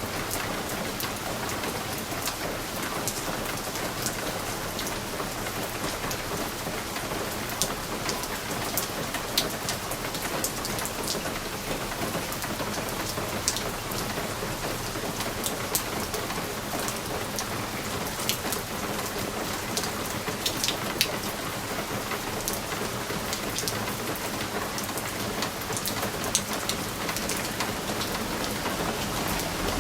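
Steady rain pattering on window glass: a constant hiss of rainfall with many sharp, scattered drop ticks against the pane.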